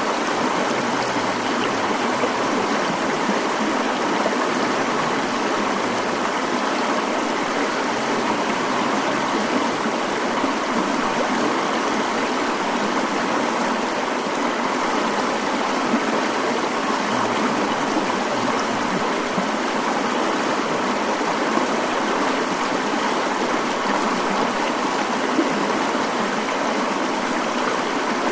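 Mountain stream flowing: a steady, even rush of water with almost no deep rumble.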